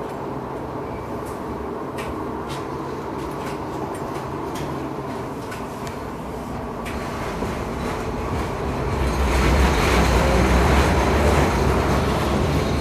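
LM-99K tram running along the rails, heard from on board: a steady rolling rumble with scattered sharp knocks and clicks from the wheels on the track. About nine seconds in the running noise grows louder and deeper.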